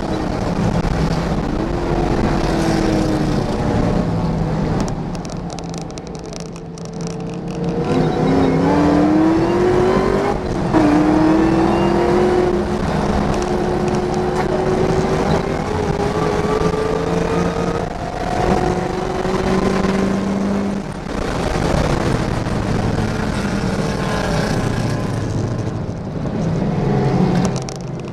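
A 2004 Cobra's V8, heard from inside the car, running hard on track. Its pitch climbs through the gears with short breaks at the upshifts. It drops and quietens briefly for a corner about five seconds in, then pulls up again.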